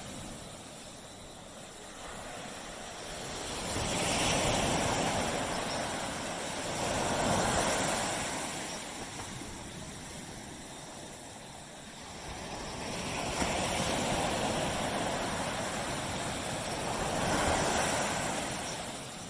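Sea waves breaking on a tropical beach: the surf swells up and dies back twice, in two slow surges about ten seconds apart.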